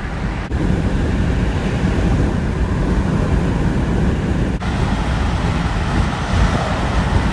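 Car and traffic road noise: a loud, steady low rumble, broken by two brief dips about half a second and four and a half seconds in.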